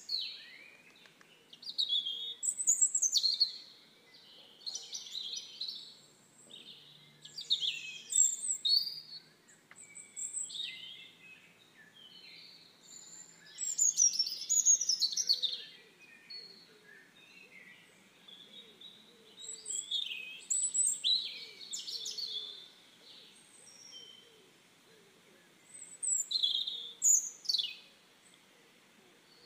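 Birds chirping and singing in short, high, quick-sweeping calls that come in bunches every few seconds, with quieter gaps between, over a faint steady hiss.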